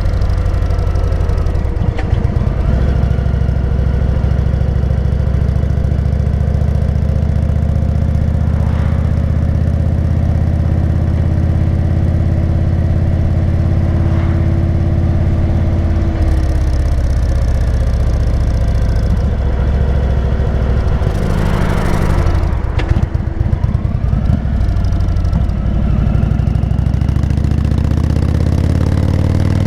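Indian motorcycle's V-twin engine running while cruising, its pitch holding steady and shifting a few times with throttle changes. A short rush of noise comes about 22 seconds in.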